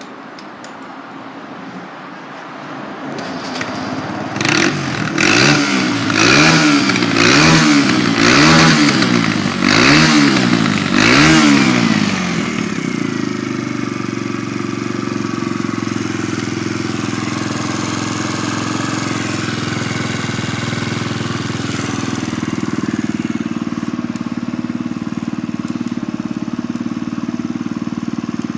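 Kawasaki KLX125's single-cylinder four-stroke engine starting, then revved up and down about six times in quick succession before settling into a steady idle for the rest of the time.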